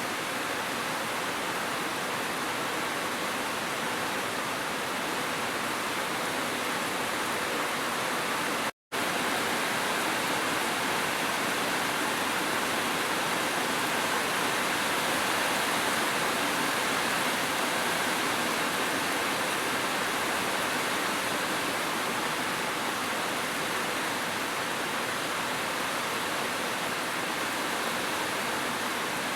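Steady rush of a waterfall mixed with gentle rain, an even hiss with no separate drops or strokes standing out. The sound cuts out completely for a split second about nine seconds in, then resumes unchanged.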